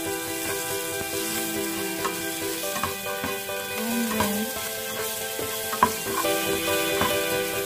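Minced garlic sizzling in hot oil in a frying pan, stirred with a spatula, with a few sharp taps of the spatula against the pan, the sharpest a little before six seconds in.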